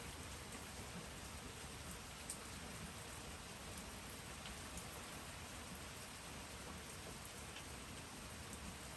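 Steady rain falling, a soft even hiss with a few faint single drip ticks.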